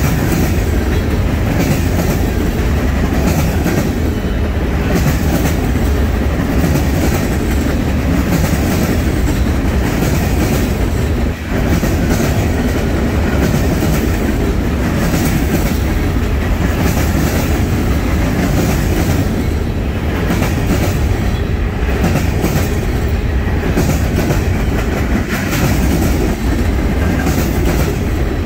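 Norfolk Southern garbage train's blue high-sided trash gondolas rolling past close by: a loud, steady rumble of steel wheels on rail, with repeated clicks as the wheels pass over the rail joints.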